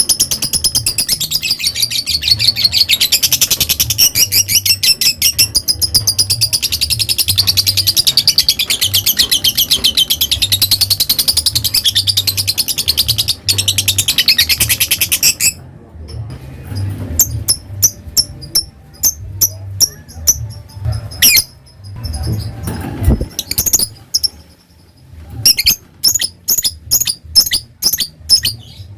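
Lovebird giving its long, rapid chattering trill (the prized 'ngekek') without a break for about fifteen seconds, then stopping. After that it gives separate short, sharp chirps in quick clusters, the ticking 'ngetik' notes.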